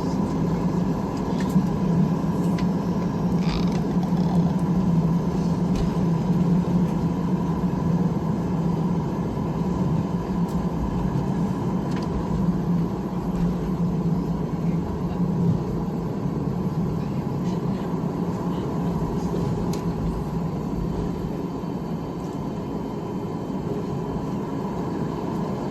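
Airliner cabin noise during landing: a steady rumble of engines and airflow with a thin steady hum, easing off slightly over the last several seconds.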